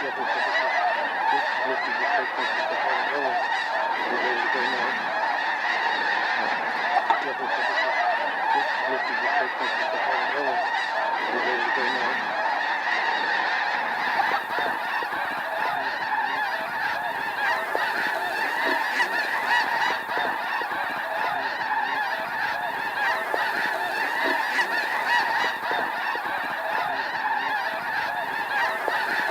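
A large flock of snow geese calling all at once, a dense, unbroken chorus of many overlapping calls that holds steady throughout.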